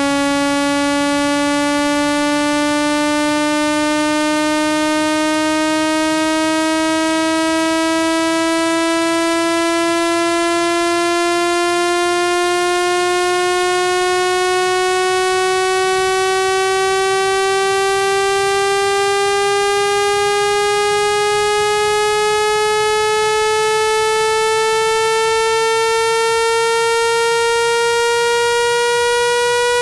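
Synthesized speaker-cleaning tone: a steady, buzzy electronic tone rich in overtones, sliding slowly and evenly upward in pitch. It is played at high volume to vibrate a speaker's cone and shake water and dust out of the grill.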